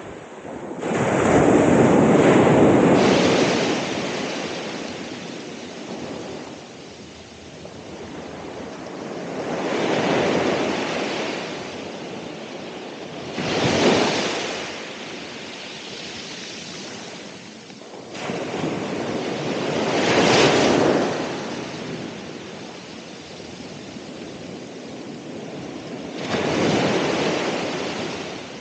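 Ocean waves breaking and washing up the shore: five surges, each swelling and falling away over a few seconds, with a steady hiss of surf between them.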